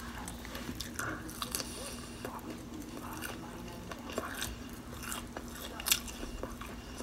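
A person biting and chewing breaded fried shrimp: scattered crunches and mouth sounds, with the sharpest crunch about six seconds in.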